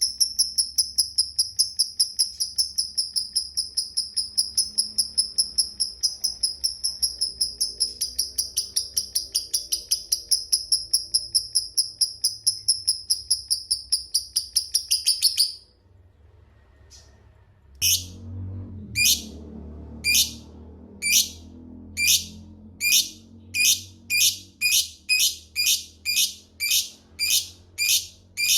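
Lovebird's long 'ngekek' chatter: a rapid train of high notes at about five a second, held for some fifteen seconds and cutting off abruptly. After a short pause it begins single 'tik' notes about a second apart that quicken to about two a second.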